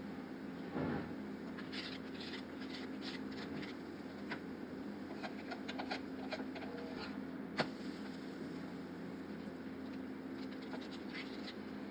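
Atta pancake batter cooking in a pan of butter and oil: faint scattered crackles and small clicks over a steady low hum, with one sharper click about two-thirds of the way through.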